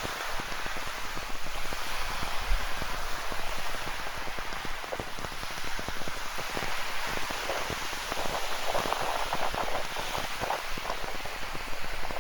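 Rain falling steadily, a dense patter of drops striking close by, with a heavier spell of drops about nine seconds in.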